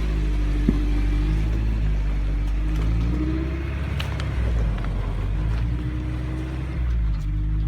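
Off-road SUV engine running at low revs while crawling over rocks, its pitch rising and falling gently with the throttle. There are a couple of short sharp clicks.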